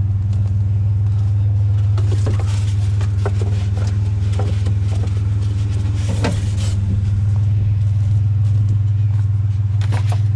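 Truck driving: a steady low engine and road drone heard from inside the cab, with scattered light clicks and rattles a few seconds in.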